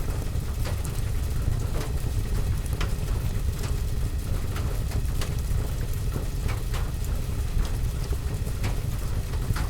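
Wood fire crackling in a fireplace together with steady rain on a window and roof: a low steady rumble with scattered sharp pops and ticks.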